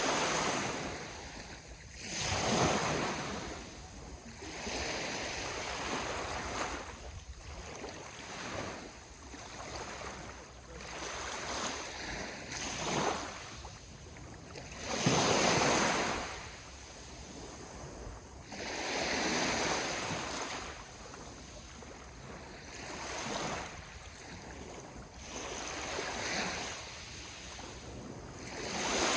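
Ocean waves breaking and washing up the shore, one surge after another every few seconds, the biggest about halfway through.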